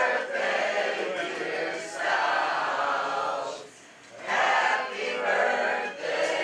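A group of voices singing together in phrases, breaking off briefly about four seconds in and then starting again.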